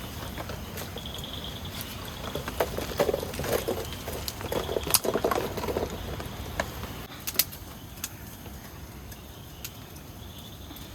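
Camp cooking utensils and pots clinking and knocking, busiest in the middle few seconds, with scattered sharp clicks.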